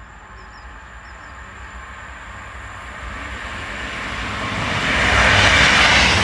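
Diesel multiple-unit passenger train approaching and running through the station, its engine rumble and wheel-on-rail noise growing steadily louder and peaking in the last second or so as it passes close by.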